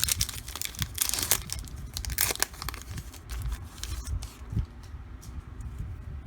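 Crinkling and tearing of a trading-card pack wrapper as the cards are handled: sharp crackly rustles, busiest in the first two and a half seconds and sparser after.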